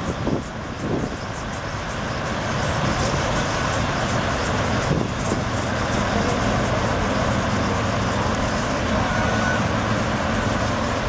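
A heavy truck's engine running, getting louder over the first two to three seconds and then holding steady.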